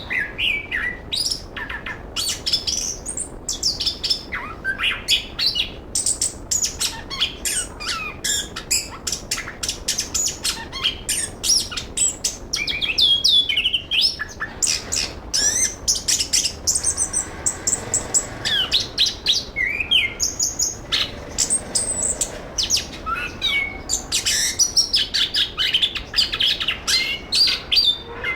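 Chestnut-capped thrush (anis kembang) singing: a fast, unbroken stream of varied chirps, whistled sweeps and sharp high notes, with a quick run of evenly repeated high notes about two-thirds of the way through.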